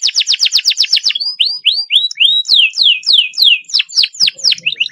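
Domestic canary singing: a fast trill of rapid falling notes, then a slower run of separate sweeping whistles about three or four a second, which speeds up again into a quick roll near the end.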